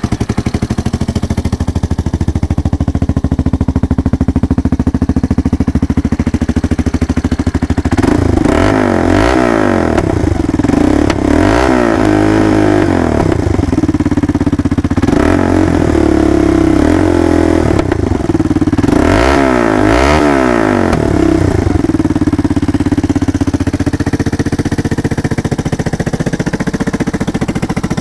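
Engine running through a new SuperTrapp exhaust, fitted in place of a straight pipe: it idles steadily, is revved up and back down several times in the middle, then settles back to idle.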